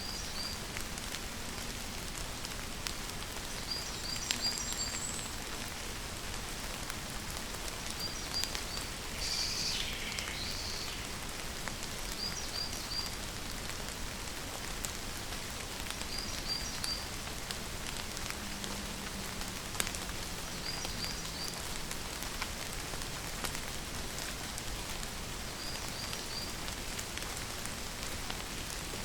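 Steady rain falling, with a bird repeating a short three-note chirp every four seconds or so, and one louder call that falls in pitch about nine seconds in.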